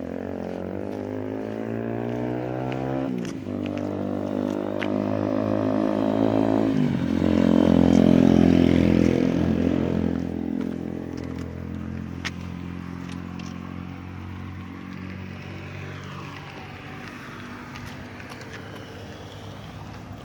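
A motor vehicle accelerating and passing: its pitch climbs, drops sharply about three seconds in, climbs again and drops about seven seconds in, like gear changes, is loudest around eight seconds in, then fades away.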